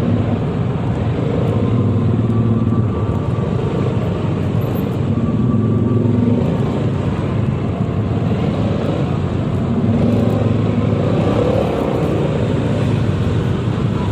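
Yamaha XMAX 300 scooter's single-cylinder engine, on its stock exhaust, running while riding through traffic, its note picking up and easing off a few times.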